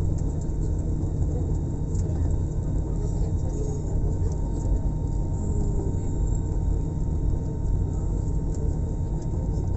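Steady low rumble of an airliner's engines and airflow heard from inside the passenger cabin, with a faint steady tone above it.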